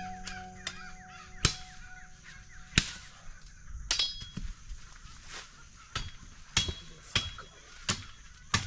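Machete chopping wood: a string of sharp strikes, some with a brief metallic ring, spaced widely at first and then coming about every half to three-quarters of a second.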